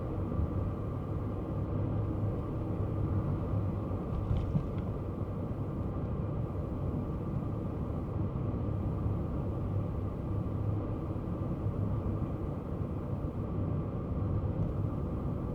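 Kei car driving at a steady pace: continuous low engine and road rumble with no sudden changes.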